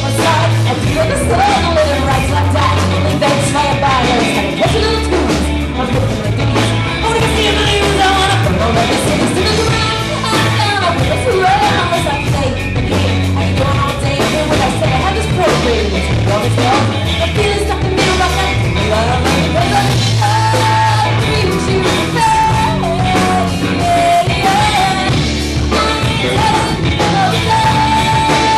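Live rock band playing a song, with a singer's voice over bass, guitar and drums.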